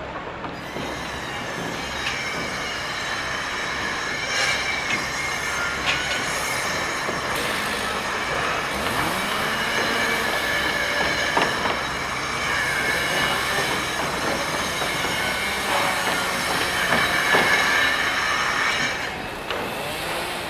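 Construction machinery running steadily, with high, held metallic squealing tones over a continuous rumble and a few sliding tones partway through.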